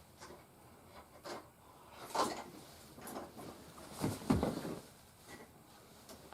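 Plastic action figures being handled and set down: a handful of light knocks and clatters, the loudest about four seconds in.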